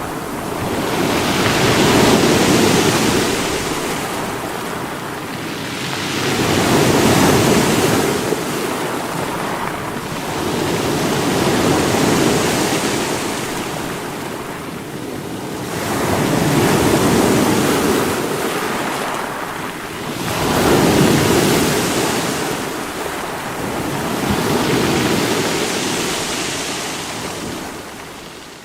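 Sea waves breaking against rocks, the wash swelling and falling about every four to five seconds. The sound drops away sharply right at the end.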